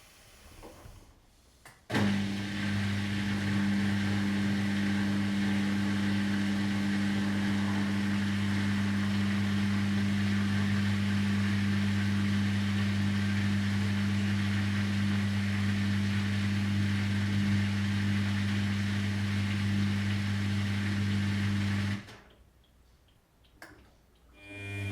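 Washing machine motor switching on about two seconds in and running at a steady speed for about twenty seconds, a low hum over a broad rushing noise, then cutting off abruptly.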